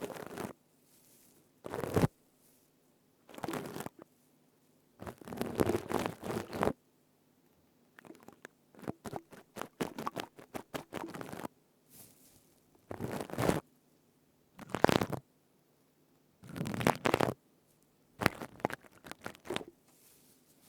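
Stainless-steel scrubber being squeezed and rubbed close to the microphone: crisp, crackly crunching in about nine separate bursts with short pauses between. Around the middle, a longer run of quick small crunches.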